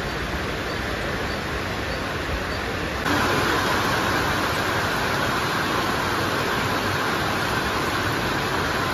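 Heavy rain pouring over a railway station's tracks and platforms, a steady hiss that jumps louder about three seconds in.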